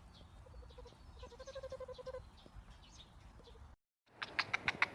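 An animal's wavering, pitched call, a short one and then a longer one of about a second. After a sudden cut near the end comes a quick run of sharp clicks.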